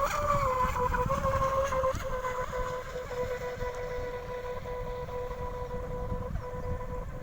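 Electric motor of a 6S-powered RC outrigger boat running: a steady whine that wavers in pitch for the first couple of seconds, then holds level, over a low rumble.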